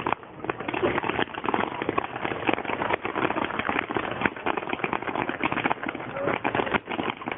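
Fireworks crackling with a dense run of sharp pops, recorded on a mobile phone so the sound is thin and cut off at the top.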